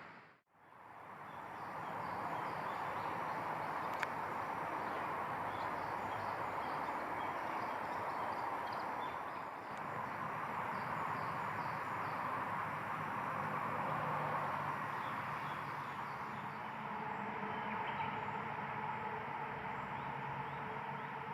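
Steady outdoor ambience: a constant hiss with faint, high bird chirps over it. The sound drops out briefly right at the start, and there is a single sharp click about four seconds in.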